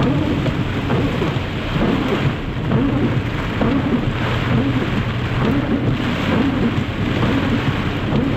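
Heavy thunderstorm rain pouring steadily, with a low rumble underneath.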